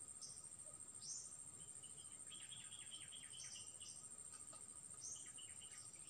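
Faint wild bird calls: a few short, high down-slurred whistles and two quick runs of chirps, over a steady thin high-pitched drone.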